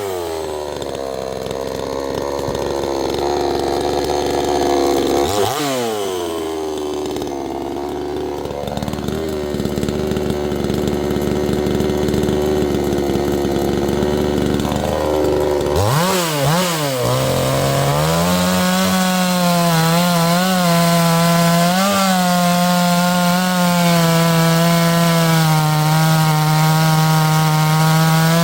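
62cc two-stroke gas chainsaw running hard while cutting through a log. The engine pitch dips sharply and recovers twice, about a third of the way in and again past the middle, then settles into a steady, louder note under load for the rest.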